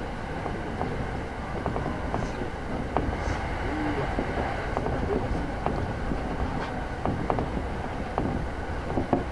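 Chūō-Sōbu Line local commuter train running, heard from inside the carriage: a steady rumble of wheels on rail with scattered clicks and knocks.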